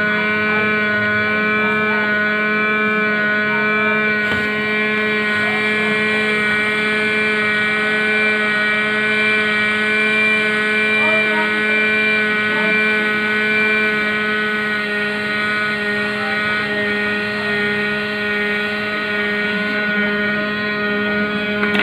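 Steady electric hum with a stack of held tones and a whirring hiss, from a hot air rework station blowing while a sound IC is soldered onto a DTH receiver board.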